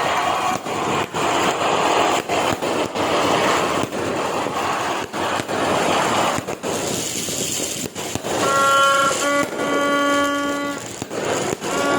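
A 42-shot fireworks cake firing a rapid, irregular series of shots over a dense crackling hiss. About two-thirds of the way through, a steady pitched tone like a horn holds for a couple of seconds over the bangs.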